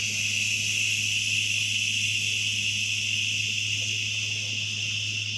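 A person's long, steady "shhhh" exhale, the liver sound of the Taoist Six Healing Sounds qigong practice, slowly fading.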